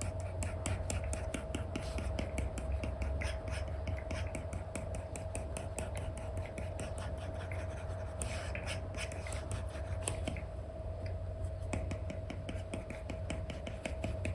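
Stylus nib scratching and tapping on a paper-like screen protector over an iPad as paint strokes are laid down: rapid, uneven short strokes, several a second, over a steady faint hum.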